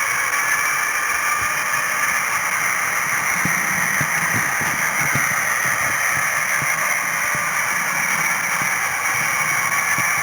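H0 scale model train running on its track, picked up by a camera riding on it: a steady hiss and whine with irregular low clicks through most of the stretch.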